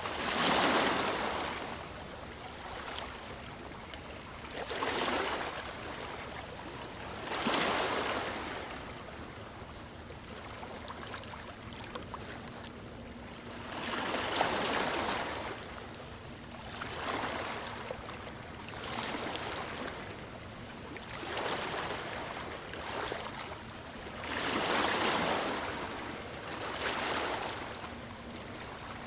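Ocean waves breaking on a beach: surges of rushing surf, each swelling and fading over a second or two, roughly every two to five seconds over a steady low wash.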